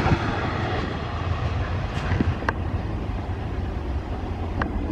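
Passenger train's coaches rolling past and away, a rumble of steel wheels on rail that slowly fades as the last coach recedes. A few short high squeaks from the wheels come about two seconds in, again half a second later and near the end.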